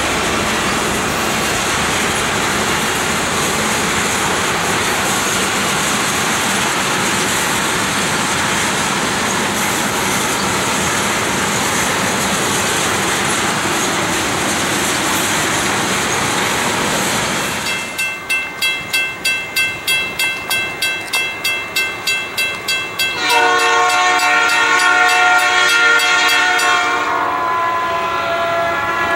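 Freight train of tank cars rolling past close by: a steady rush of steel wheels on rail. About eighteen seconds in this gives way to a rapid ringing of about three to four strokes a second, then an approaching locomotive's multi-note air horn sounds a long blast near the end.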